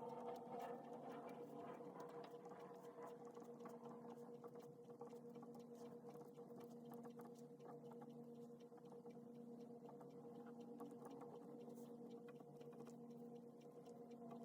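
Faint pen writing on paper, light scratches and taps, over a steady low electrical hum.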